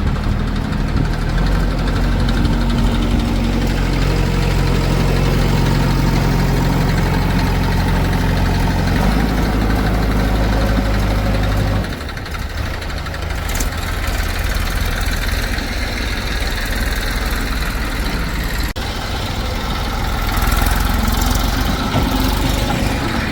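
Diesel engine of a backhoe or tractor running steadily; about twelve seconds in the steady engine note cuts off abruptly and gives way to a rougher engine sound.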